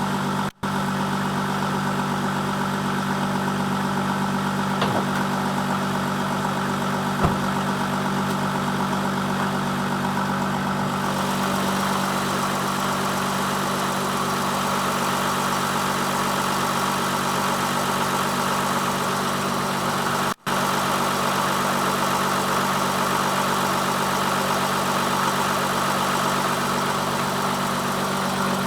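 Audi 3.0 L V6 TDI diesel idling steadily while still cold from a start at 16 °F. The sound drops out briefly twice: just after the start and about two-thirds of the way through.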